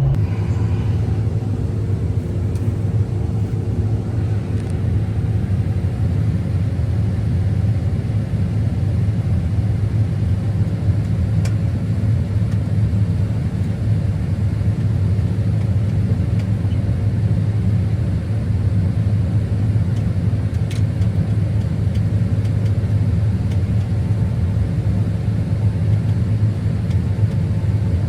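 Combine harvester running steadily while harvesting corn: a constant low drone that doesn't change.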